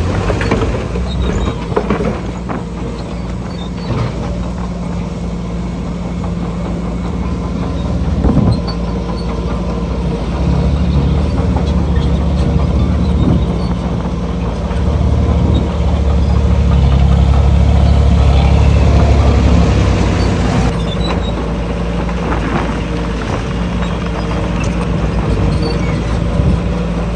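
Diesel engine of heavy earthmoving machinery running steadily. From about ten seconds in to about twenty seconds it works harder, with a louder, deeper low drone. A few short knocks and clanks come near the start and about eight seconds in.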